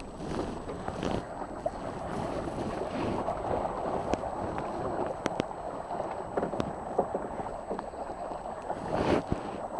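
Water sounds around a small sailing dinghy with wind on the microphone: a steady rushing noise, with scattered light knocks and clicks.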